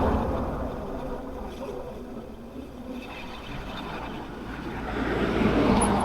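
Wind and road noise from an e-bike being ridden along a lane: a steady rushing that eases off in the middle and swells again about five seconds in.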